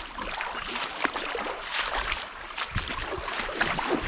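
Creek water running, with scattered small clicks and knocks.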